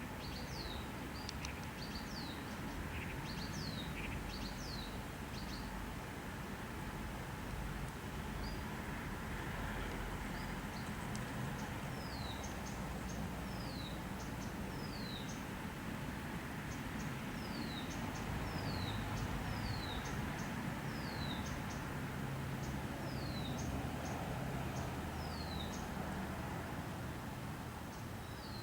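A bird calling repeatedly: short high whistles that slide downward, about one a second, mixed with brief chirps, over a steady background hiss.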